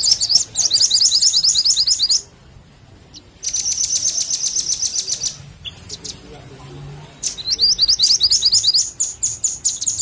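Songbird calls used as a bird lure: fast trains of high, sharp chirps, about eight notes a second, in three bursts separated by short pauses.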